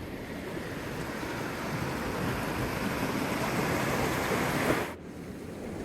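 Rain-swollen mountain waterfall rushing: a steady noise of falling water that grows louder, then drops suddenly to a quieter rush about five seconds in.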